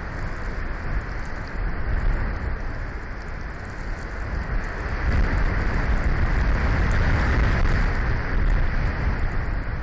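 Storm wind gusting over the nest camera's outdoor microphone: a steady rushing with a heavy low rumble, growing stronger about halfway through.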